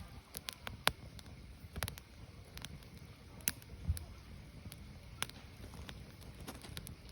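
Firewood fire crackling, with sharp irregular pops every second or so over a low steady rumble of burning.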